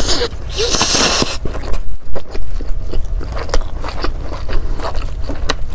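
Close-miked eating: a person biting and chewing food, with many short sharp clicks and crunches.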